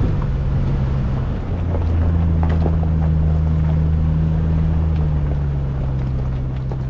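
Jeep engine droning under way, with the pitch stepping up about two seconds in and dropping back around five seconds. Scattered small ticks and rattles run over it.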